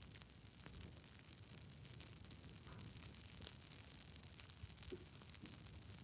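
Campfire burning with wood crackling: many small irregular snaps and pops over a soft steady hiss of the flames.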